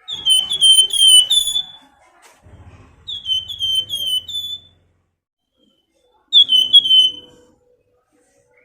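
Flamboyan songbird whistling: three quick runs of short, falling whistled notes, about five, then four, then three, with pauses between them.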